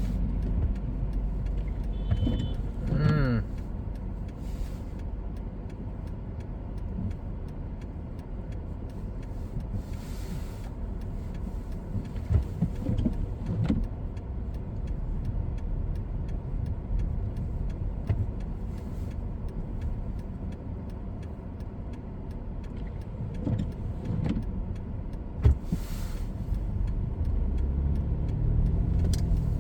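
Car driving on a snow-covered road, heard from inside: a steady low rumble of engine and tyres, with a few short hissy swishes and a brief higher-pitched sound about three seconds in.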